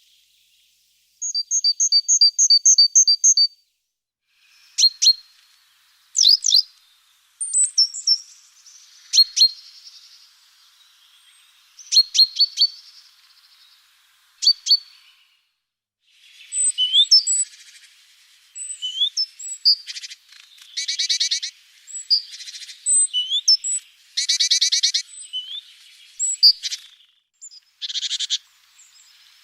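Several small songbirds calling: a quick run of evenly repeated high notes near the start, then scattered sharp chips, and in the second half a few fast rattling trills among short whistled calls.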